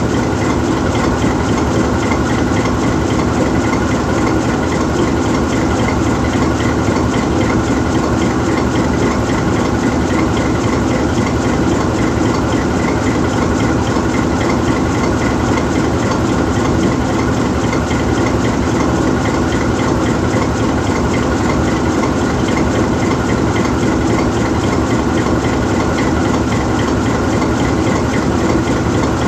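GE U20C diesel-electric locomotive's 12-cylinder GE 7FDL diesel engine idling steadily with the locomotive standing still.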